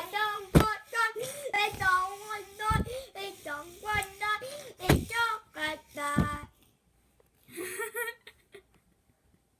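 A young child's voice singing or chanting wordless, melody-like sounds, with a few sharp knocks mixed in; it stops about six and a half seconds in, followed by one short vocal burst about a second later.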